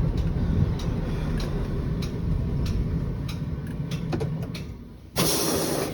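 Scania 113 bus engine running with a low rumble that dies away about four and a half seconds in. Then comes a sudden, loud burst of compressed-air hiss from the bus's air system.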